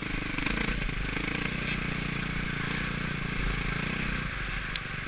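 Suzuki RM-Z450 four-stroke single-cylinder motocross engine running at low revs, its note dropping away about four seconds in. A single sharp click near the end.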